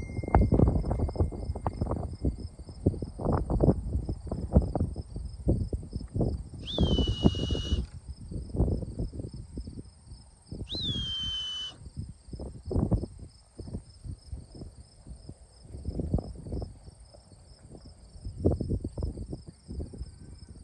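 Insects chirring in a steady, high, pulsing drone, over irregular low thumps and rumbles. Twice, about seven and eleven seconds in, a short tone falls and then holds for about a second.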